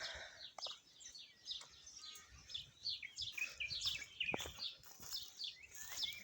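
Small birds chirping: many short, high chirps, each sliding down in pitch, repeated quickly and faintly throughout.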